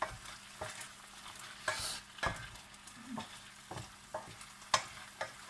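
Chicken pieces sizzling in a pan with a little butter as their released juices cook off, while a utensil stirs them and knocks against the pan several times, the loudest knock near the end.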